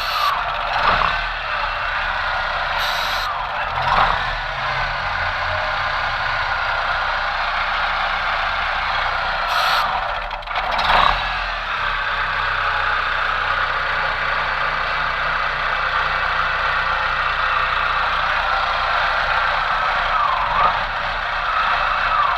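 Chevrolet Tornado's 1.8-litre four-cylinder engine running steadily, swelling briefly about a second in, at about four seconds and again around ten to eleven seconds.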